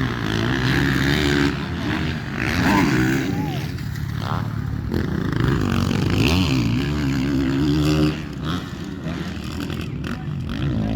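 Motocross bike engines revving on the track, the pitch climbing and dropping again and again as the riders open and close the throttle.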